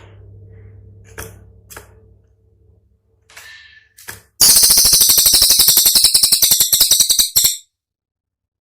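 Cililin songbird giving its 'tembakan' call: a loud, very fast rattling burst of sharp, clicking notes lasting about three seconds and stopping abruptly. Before it, a few faint short call notes sound over a low steady hum.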